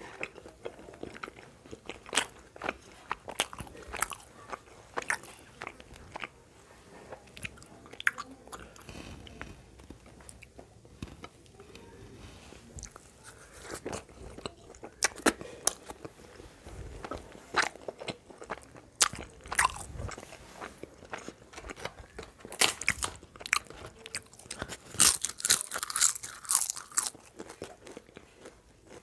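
Close-miked eating sounds: chewing and smacking with sharp crunchy bites scattered throughout, which come thickest in a burst of crunching near the end.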